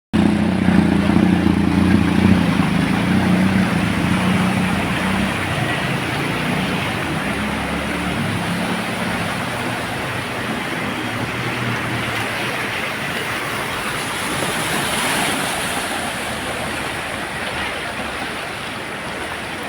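A motor vehicle's engine running, strongest at first and fading away over about the first ten seconds, over a steady rushing noise from the flooded road.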